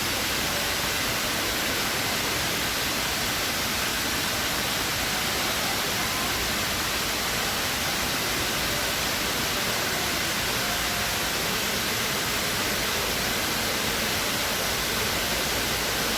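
Water of the Dubai Mall's indoor waterfall cascading into its pool, a steady unbroken rush with no change in level.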